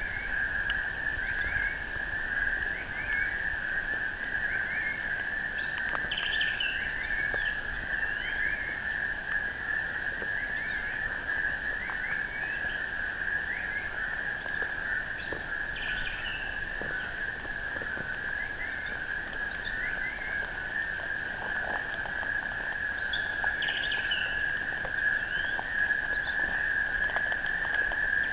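Outdoor nature ambience: a steady, unbroken high-pitched drone, with scattered short bird chirps and calls over it, busiest around 6, 16 and 24 seconds in.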